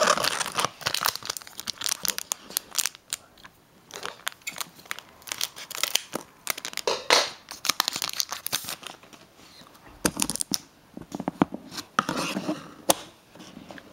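Foil wrapper of a Pokémon card booster pack crinkling and being torn open, with cards handled. It is a run of irregular crackles and rustles, loudest about seven to nine seconds in.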